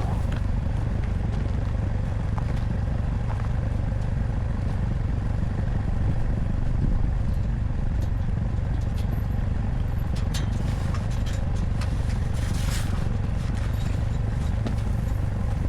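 ATV engine running steadily, a constant low rumble, with scattered light clicks and crackles over it.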